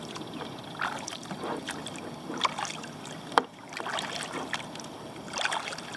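Kayak paddle strokes in calm lake water: small splashes and drips from the paddle blades, with a sharp tap about three and a half seconds in.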